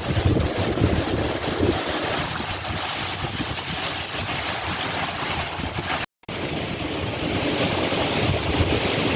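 Strong haboob wind: a loud, steady rushing hiss with gusts buffeting the microphone in low rumbles. The sound drops out completely for a moment about six seconds in.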